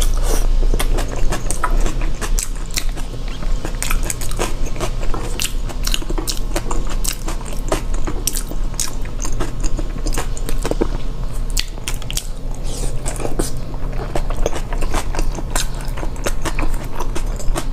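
Close-miked chewing of a soft-yolked century egg in soy-sauce dressing: wet smacks and many small irregular clicks of mouth and teeth.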